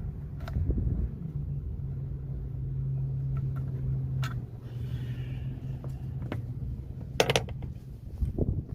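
Steady low mechanical hum over a rumble, with a few sharp clicks and knocks.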